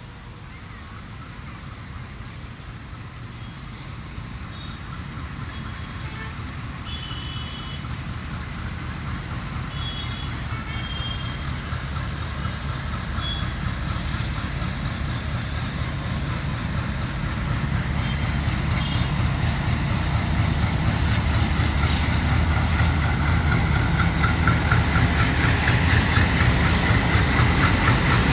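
Twin ALCO diesel locomotives hauling a passenger train out of a station, engines running and growing steadily louder as the train gets under way, with a high steady whine above the engine sound.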